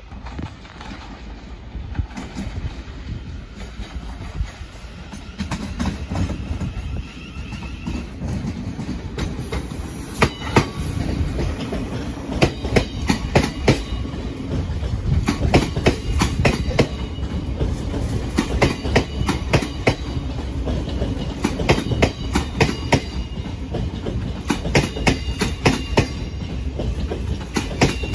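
Thameslink Class 700 electric multiple unit running past, with a steady low rumble. From about ten seconds in, its wheels click in repeated quick clusters over the rail joints and points.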